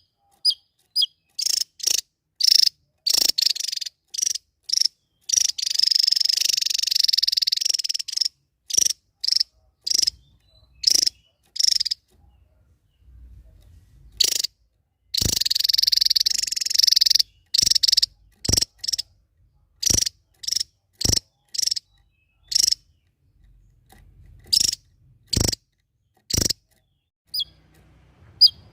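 Small songbird singing in the 'nembak' style: loud, sharp single notes fired off one after another in irregular runs, broken twice by a long, buzzy rattling trill of two to three seconds.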